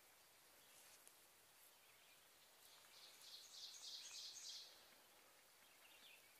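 Near silence of woodland, with a faint songbird call about three seconds in: a quick run of high notes lasting under two seconds.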